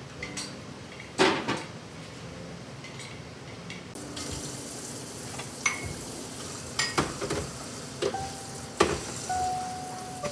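Kitchen work: utensils and dishes clinking and knocking several times, over a steady hiss that comes up about four seconds in, with a short steady ringing tone near the end.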